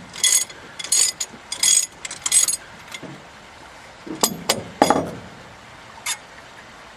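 Hand ratchet wrench being worked in short strokes on a bolt, four bursts of rapid clicking about one every 0.7 s. A few sharp metallic knocks and clinks follow about four to five seconds in.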